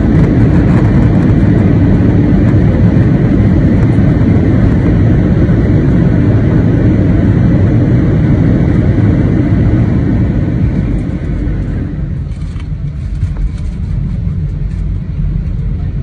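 Cabin noise of an Airbus A320 landing: a loud, steady rumble of the engines and the wheels rolling on the runway, which dies down about eleven seconds in as the aircraft slows.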